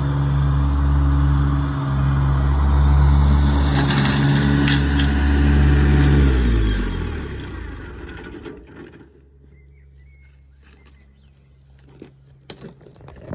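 Iseki tractor engine running steadily, then shut off about six seconds in, its pitch falling as it runs down to a stop. A few faint clicks follow near the end.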